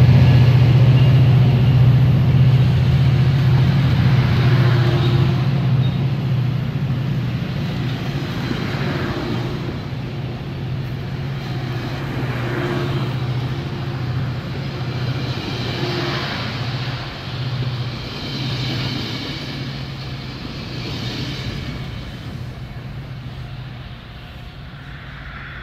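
Metrolink commuter train passing and pulling away: the diesel locomotive's steady low drone fades out as the bilevel coaches roll by, with wheel-on-rail noise swelling every few seconds as each car goes past.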